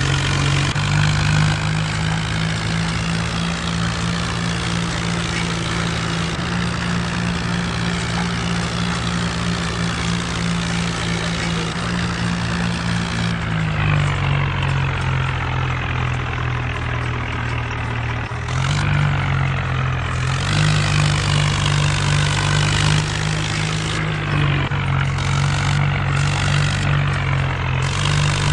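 Mahindra Arjun 4x4 tractor's diesel engine running steadily. Its note drops about 14 seconds in and rises back about 19 seconds in.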